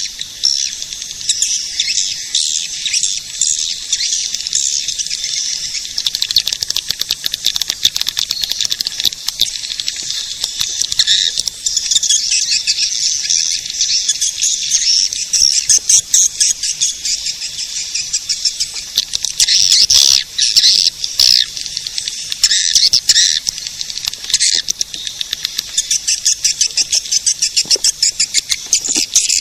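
Swiftlet lure call: a dense, unbroken chatter of rapid, high twittering chirps from swiftlets, the call played in swiftlet houses to draw the birds in to roost and nest. The sound is thin, with no low end.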